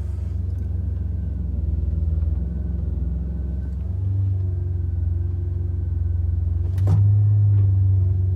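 BMW 850i's 5.0-litre V12 running at low revs, a steady low drone. It gets a little louder about four seconds in and again near seven seconds, with a sharp click just before the second rise.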